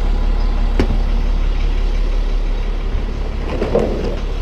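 Tow truck engine idling steadily, with a single knock about a second in and some rattling near the end.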